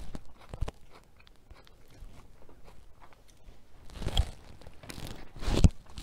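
Close-miked chewing of food, with small mouth clicks in the first second and two louder chewing sounds about four and five and a half seconds in, the second the loudest.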